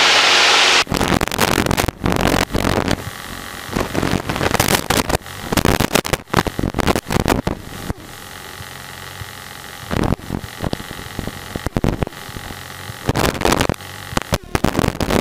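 Steady engine and wind noise inside a single-engine Cessna's cabin under climb power, heard over the intercom as a loud hiss broken by irregular crackles and dropouts.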